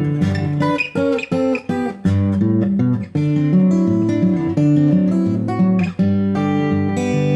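Background music: a strummed acoustic guitar playing a steady chord pattern.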